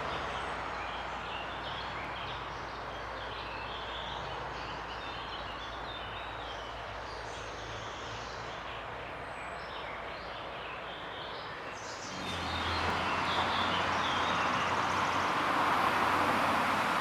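Outdoor background: birds chirping over a steady low hum of distant traffic. About twelve seconds in, a passing vehicle's rumble swells up and grows louder with a low drone.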